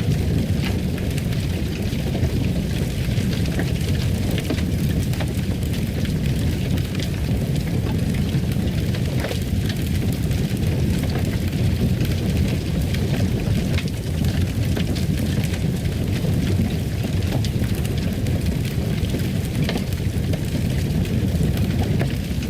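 Wood fire crackling in a fireplace: a steady low rumble of flames with frequent scattered small pops and crackles.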